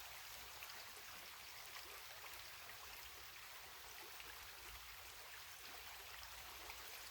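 Faint, steady running water of a small creek, an even hiss without distinct events.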